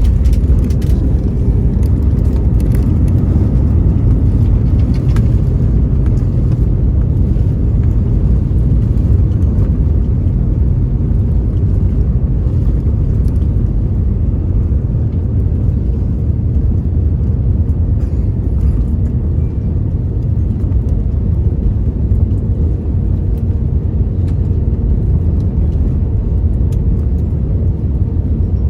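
Steady low rumble of an Airbus A321 in flight or on the runway, heard from inside the passenger cabin, with a few faint clicks in the first few seconds.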